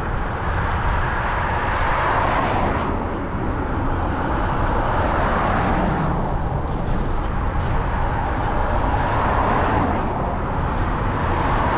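Cars passing on a main road, heard from a moving bicycle: several vehicles swell up and fade away over a steady low rumble.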